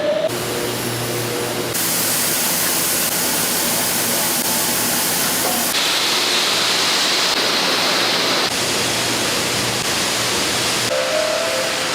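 Loud, steady rushing hiss of industrial noise that changes character abruptly every few seconds.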